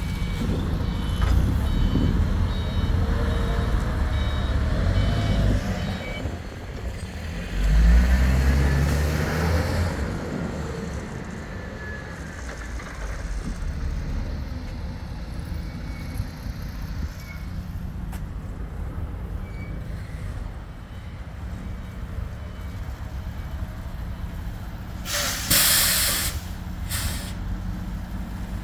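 Forklift loading a truck at a dock: reversing beeps over engine rumble for the first several seconds, a low engine surge about eight seconds in, then steady idling. A short, sharp burst of air-brake hiss comes near the end.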